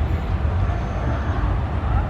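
Steady low rumble of the Shatabdi Express passenger train running into the station.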